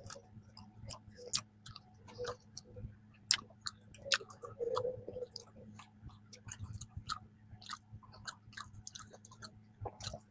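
Close-miked chewing of a soft peanut cream bun: irregular, quick wet mouth clicks and smacks.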